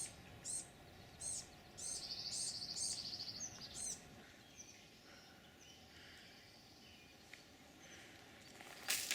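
Wild birds singing: a rapid high trill lasting about a second and several short high chirps in the first four seconds, then fainter birdsong. A sharp click near the end.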